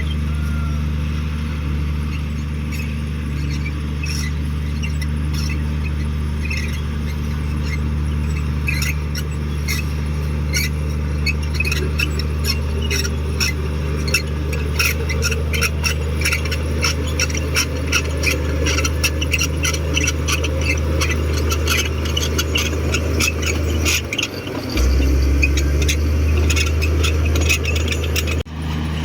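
Komatsu D58 crawler bulldozer's diesel engine running steadily, with a rapid run of squeaks and clanks from its steel tracks building up from about a third of the way in. About four fifths of the way through, the engine note briefly dips and then settles lower and louder.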